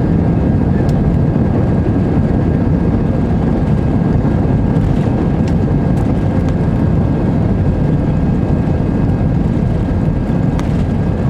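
Airbus A320 airliner heard from inside the passenger cabin: a steady, dense rumble of engines and airflow, with a faint steady whine above it.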